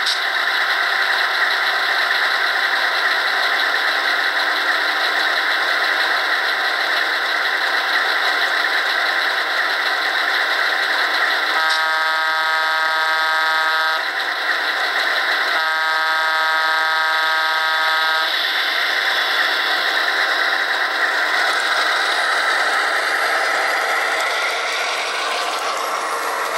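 Sound decoder of an HO-scale EMD E7A diesel locomotive model running through the model's small speaker. A steady diesel engine sound plays throughout. About halfway through come two long horn blasts, the railroad signal for releasing brakes and proceeding. Near the end the engine sound shifts in pitch.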